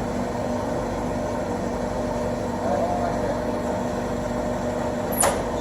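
Forklift engine running steadily, with a single sharp metallic clank a little before the end.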